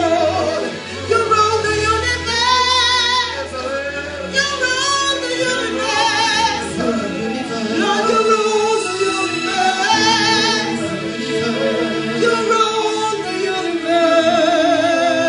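Live worship music: singers with vibrato over a sustained bass accompaniment.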